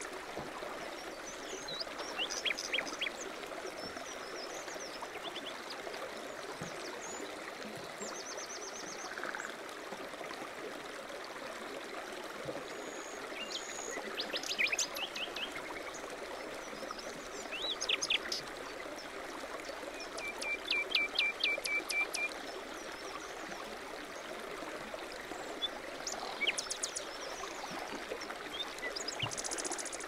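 Small birds chirping now and then, with short high notes and one rapid run of repeated notes about two-thirds of the way through, over a steady background hiss.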